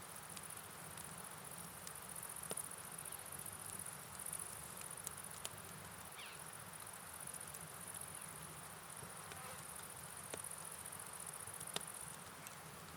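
Night rain and river ambience: a steady rush of water under a constant high-pitched shimmer, with scattered sharp clicks.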